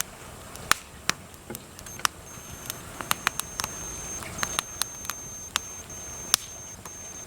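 Small newly lit wood fire of feather sticks and kindling crackling, with a dozen or so irregular sharp pops as the flame catches.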